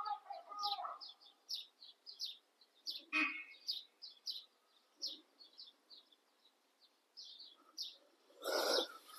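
Small birds chirping: many short, quick, high notes, faint and irregular. There is a stronger call about three seconds in and a brief louder noise shortly before the end.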